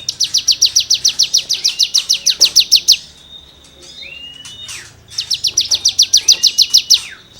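A cigun songbird singing in rapid-fire bursts of sharp, evenly repeated high notes, about six a second. One burst runs about three seconds, then comes a short gap with a brief whistled glide, then a second burst about two seconds long.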